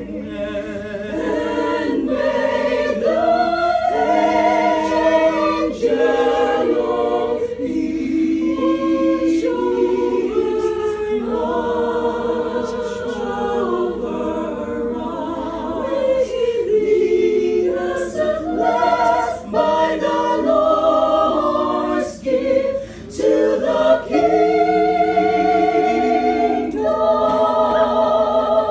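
A choir singing a cappella, several voice parts holding notes together in harmony, with brief breaks between phrases.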